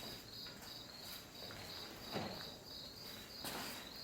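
Crickets chirping steadily in a fast, even pulsing trill, with a couple of faint scuffs about two and three and a half seconds in.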